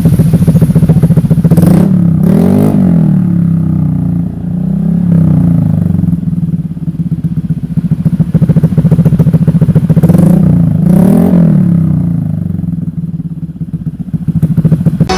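Motorcycle engine with an SC Project aftermarket exhaust muffler, idling and revved up and back down several times.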